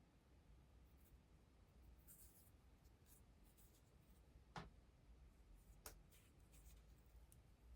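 Near silence, with faint scratching and rubbing and two short, sharp clicks a little over a second apart past the middle.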